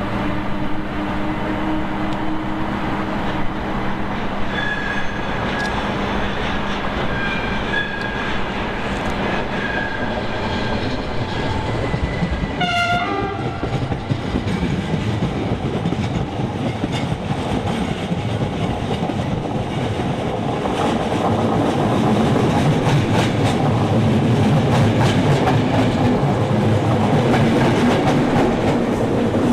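Train running on the rails, with a short horn-like sound about 13 seconds in and the wheel rumble and clatter growing louder over the last third.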